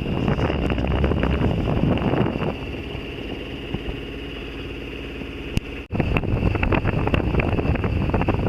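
Sailboat's old Yanmar inboard diesel running under way, with wind buffeting the microphone. The wind noise eases for a few seconds in the middle, leaving the engine's even drone, then breaks off abruptly about six seconds in and returns.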